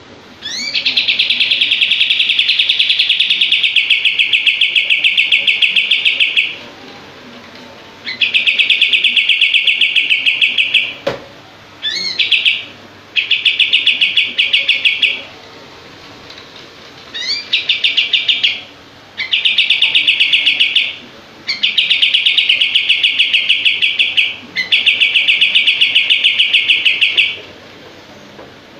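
Kapas tembak songbird singing loud, drawn-out phrases of fast, tightly packed repeated notes, the rapid 'shooting' trill the bird is named for. Each phrase opens with a rising note and lasts a few seconds, with short pauses between. A single sharp click is heard about eleven seconds in.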